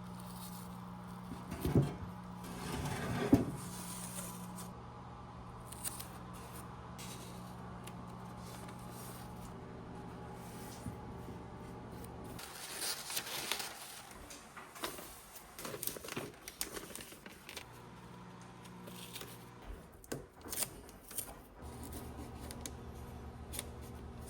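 Masking tape being pulled off the roll and torn, with two short loud tears a couple of seconds in, then scattered rustling and small handling clicks. A steady low hum sits underneath, cutting out about halfway and returning near the end.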